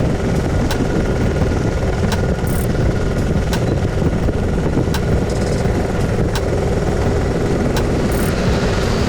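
Motorcycle on the move, its engine running steadily under a dense rush of noise, with a faint tick about every three-quarters of a second.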